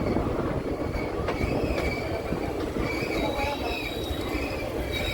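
Express passenger train running on the rails: a steady rumble with a single click, and a thin, high wheel squeal that sets in about two seconds in and holds.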